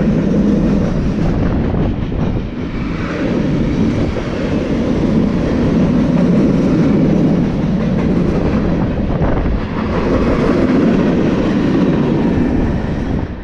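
Freight train rolling past, a steady rumble of wheels on rail that swells and eases, then cuts off abruptly at the very end.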